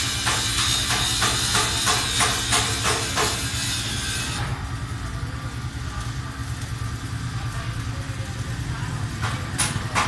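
Hammer strikes during tractor tire work, about three or four a second, stopping about four and a half seconds in and returning briefly near the end, over a steady low mechanical hum.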